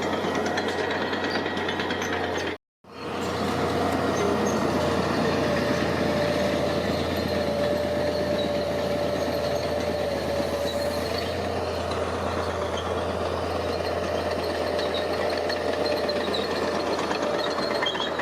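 Heavy construction machinery running, a steady diesel engine with a dense mechanical clatter. The sound cuts out for an instant about three seconds in.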